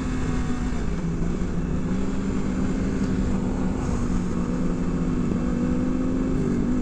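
Motorcycle engines running steadily, their pitch drifting slightly up and down with the throttle.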